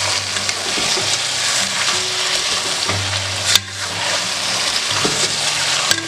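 Marinated chicken sizzling in hot oil in an aluminium pressure cooker while a steel spoon stirs it, scraping and knocking against the pot; one sharp knock about three and a half seconds in.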